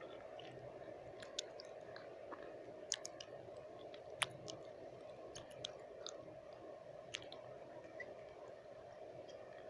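Close-miked wet mouth sounds: about a dozen sharp, irregularly spaced tongue and lip clicks, the loudest about four seconds in, over a steady low hiss of white noise.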